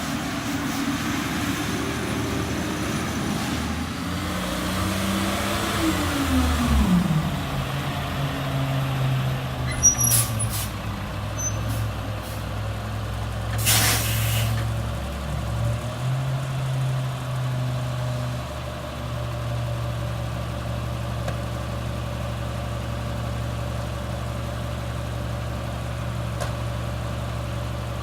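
Garbage truck engine slowing down as the truck pulls up. A few sharp clicks about ten seconds in, and a short hiss of the air brakes a few seconds later. The engine then idles steadily.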